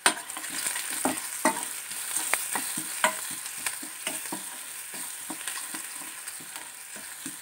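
Chopped onions and spices sizzling in ghee in a stainless-steel pan while a metal spoon stirs them, scraping and clicking against the pan. The sizzle jumps up at the start and slowly eases off.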